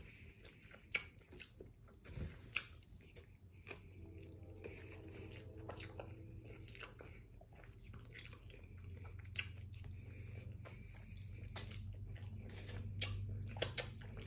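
Close-up mouth sounds of a person chewing a chicken burrito, with wet smacks and clicks at irregular intervals.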